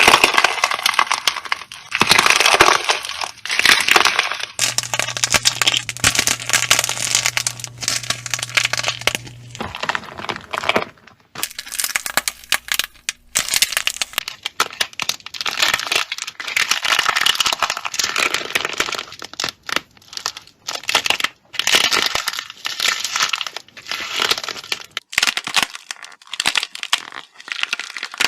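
Crunchy slime with a fragile outer shell being pressed and squeezed, its brittle crust crackling and crunching as it breaks over the soft core. Several short clips follow one another, each a dense run of crackles.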